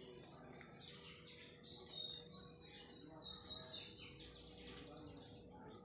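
Small birds chirping faintly, with a quick run of short, falling high notes in the middle, over a faint steady hum.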